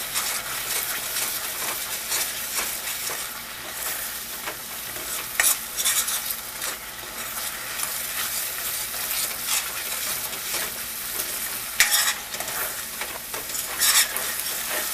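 Tomato and spice masala sizzling in hot oil in a stainless steel saucepan as a metal spoon stirs it, with a few sharper scrapes of the spoon against the pan. The masala is being cooked down until the oil separates.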